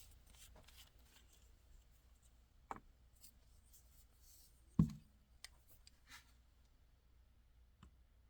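A carving knife taking faint, scratchy cuts in white birch. A sharp knock comes about two and a half seconds in, and a louder dull thump halfway through, as the piece or a tool is knocked or set down.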